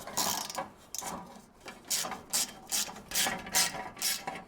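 Socket ratchet wrench working a rusted 5/16-inch bolt loose, in quick back-and-forth strokes, about two or three a second, each a short burst of pawl clicking.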